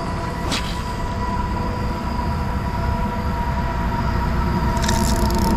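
Distant road traffic with heavy trucks: a steady low rumble with a droning hum, slowly growing louder as a vehicle approaches.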